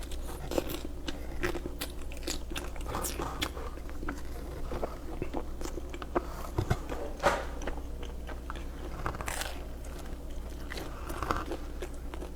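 Pizza being bitten and chewed close to the microphone: crunching, with many small wet clicks and crackles and a few louder bites near the middle.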